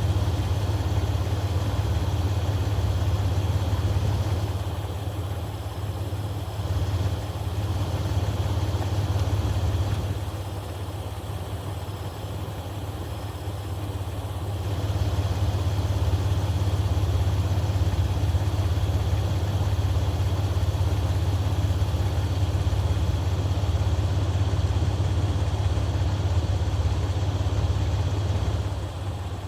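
Jeep engine idling with a steady low hum while the rebuilt Warn M8274 winch is run in stretches under light load. The sound drops back briefly about five seconds in, and again for several seconds from about ten seconds in.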